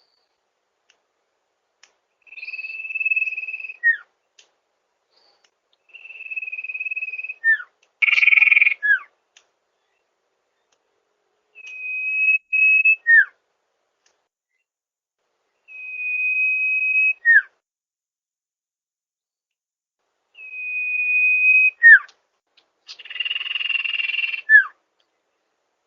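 A sirtu bird singing a repeated phrase: a long, steady, high whistle followed by a quick downward-slurred note, about every four seconds. Twice, a harsher buzzy note breaks into the series, the second just before the last slurred note.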